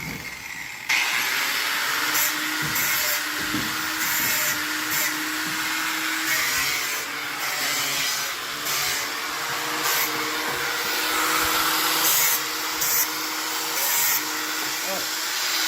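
Electric power drill starting about a second in and running steadily under load, its motor pitch wavering, with repeated short surges of harsher noise as it bites into the material.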